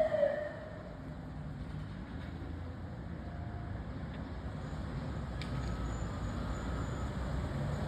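An emergency vehicle's siren falling in pitch and cutting off just after the start, followed by the low steady rumble of a heavy vehicle's engine and road traffic, slowly growing a little louder.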